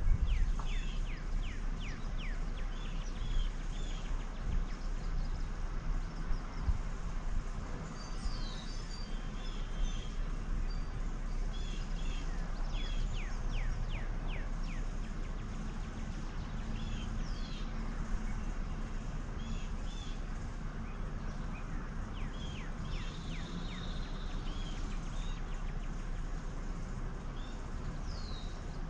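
Small birds chirping, with short repeated notes in quick series throughout, over a steady low rumble.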